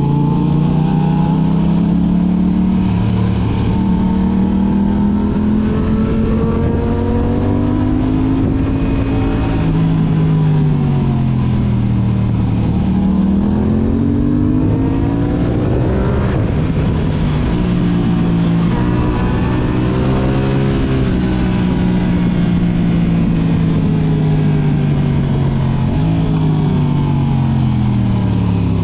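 Yamaha R6 inline-four sport bike engine through an Akrapovic exhaust, its pitch rising and falling again and again as the bike accelerates and rolls off, with a few abrupt pitch steps at gear changes. A steady low rushing noise runs underneath.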